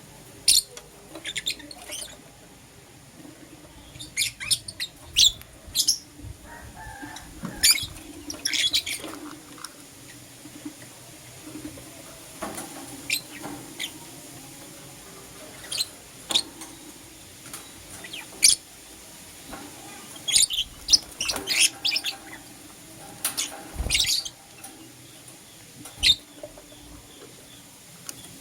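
Lovebirds chirping: short, sharp, high-pitched chirps that come in irregular clusters of a few at a time, with brief pauses between.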